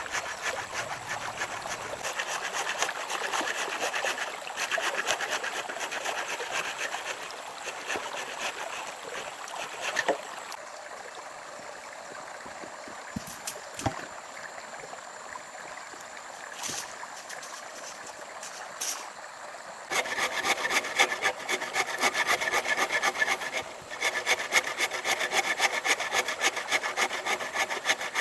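Hand saw cutting through wood in steady rasping strokes. It stops for several seconds about a third of the way in, with only a few light knocks, then resumes louder near the end.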